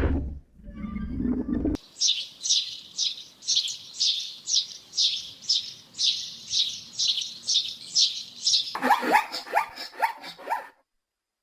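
A bird chirping over and over, high and sharp, about three chirps a second, then switching to a quicker run of lower, falling calls that stops suddenly near the end. A low sound from before cuts off abruptly just under two seconds in.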